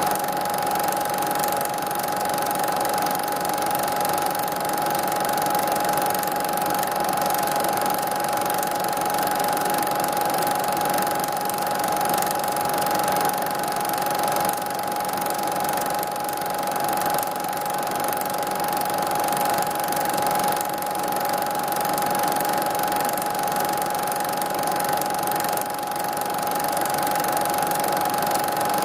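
Steady mechanical whirring hum with a constant high tone over an even hiss, unchanging throughout.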